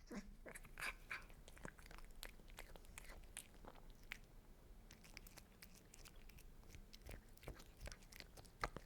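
Cats chewing and crunching food: a quiet, irregular patter of small crisp clicks.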